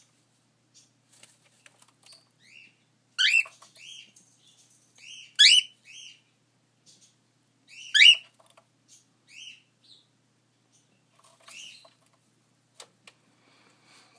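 Cockatiel chirping: three loud upward-sweeping calls about two seconds apart, with softer short chirps scattered between them.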